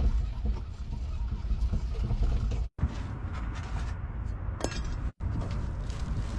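Motor vehicle driving: a steady low engine-and-road rumble, broken twice by abrupt cuts, with a brief higher-pitched noise just before the second cut.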